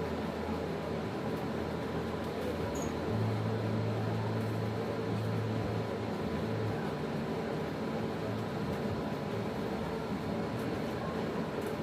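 Steady low hum with background noise, louder for a few seconds in the middle.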